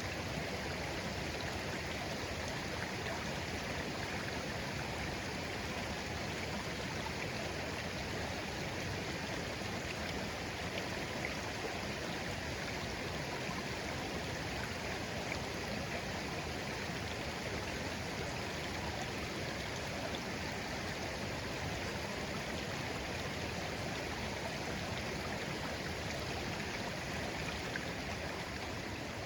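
Shallow, clear stream flowing gently over stones, a steady, even babbling.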